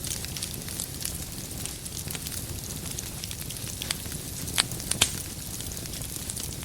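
Wood campfire crackling, with a steady run of small ticks over a constant background rush. Two louder pops come about four and a half and five seconds in.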